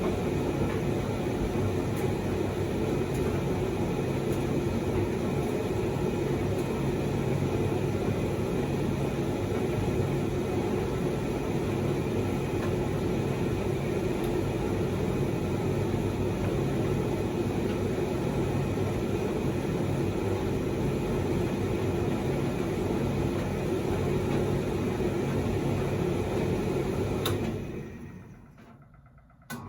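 Proline TDV60 vented tumble dryer running steadily with its new drive belt, the motor humming as the drum tumbles a load of dust sheets. Near the end the motor winds down to a brief pause, a click sounds, and it starts up again. This fits the reverse-action drum stopping to change direction.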